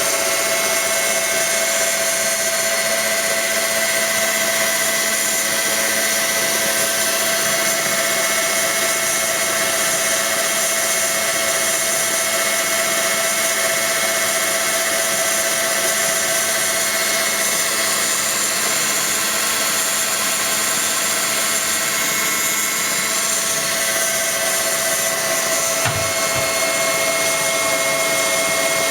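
KitchenAid Classic stand mixer's electric motor running at a constant speed, a steady mechanical whine with fixed tones. A single short knock comes near the end.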